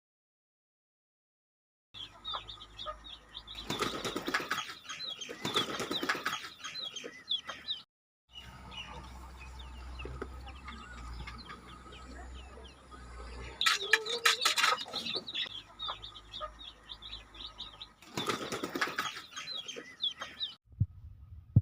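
Chickens flapping their wings in several loud bursts, over steady high chirping of small birds. The sound begins after about two seconds of silence.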